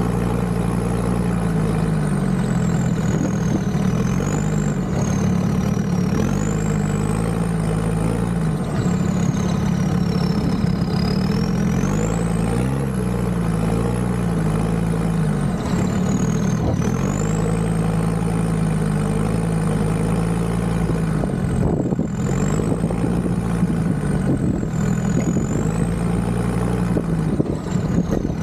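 Land Rover Discovery 2's Td5 five-cylinder turbodiesel engine pulling along an off-road track, its revs rising and falling every few seconds. A high whine climbs and drops with the revs.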